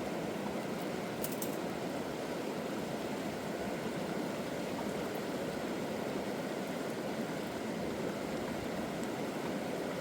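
Flowing river water making a steady, even rush.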